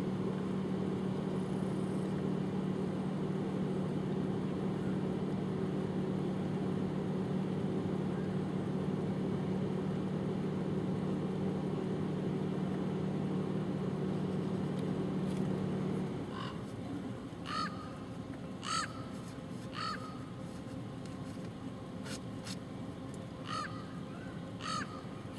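A steady low hum that cuts off suddenly about sixteen seconds in, then a string of short, harsh bird calls, about seven of them over the last nine seconds.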